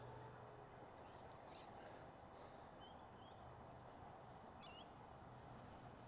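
Quiet outdoor background: a few faint bird chirps and short calls over a low, steady hum.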